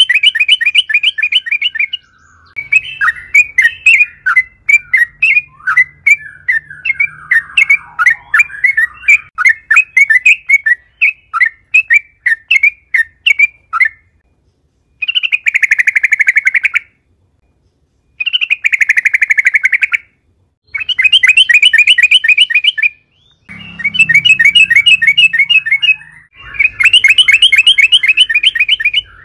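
Yellow-vented bulbul (trucukan) singing loudly in fast bubbling trills of about ten notes a second. The trills come in bursts of one to three seconds with short breaks between them. A longer, looser chattering run fills the first half.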